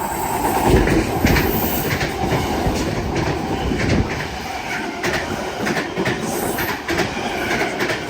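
An eight-car V-set double-deck electric intercity train passing through the platform: a loud steady rumble, with the wheels clacking repeatedly over the rail joints.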